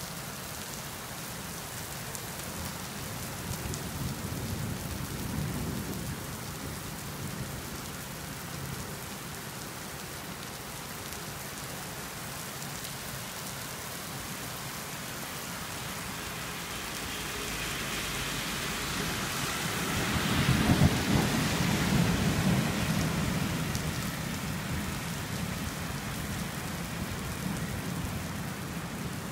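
Steady rain pouring onto a wet street and pavement. About two-thirds of the way through, a louder rumbling swell builds, peaks and fades over several seconds.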